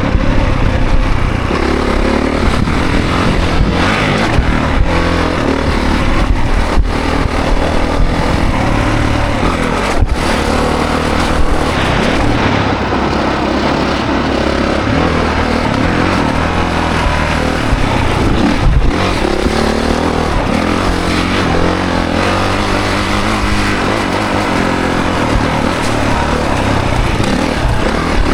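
2024 Honda CRF450's single-cylinder four-stroke dirt bike engine revving up and down under hard riding, with a few sharp knocks along the way.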